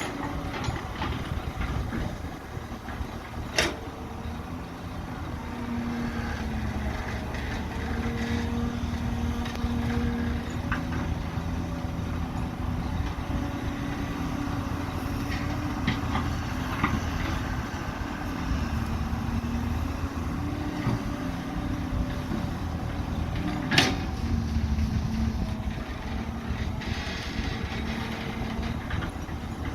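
Diesel engines of an excavator and dump truck running at work, the engine note rising and falling with load. Two sharp knocks stand out, one a few seconds in and one near the end.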